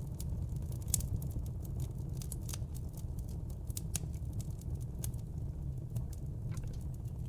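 Wood fire in a fireplace crackling: frequent sharp pops and snaps, the loudest about a second in, over a low steady rumble of the flames.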